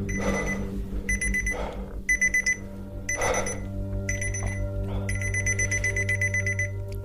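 Electronic alarm-clock-style beeping: groups of rapid high-pitched pulses roughly once a second, the last group longer, over a steady low hum. Two short bursts of noise come near the start and about three seconds in.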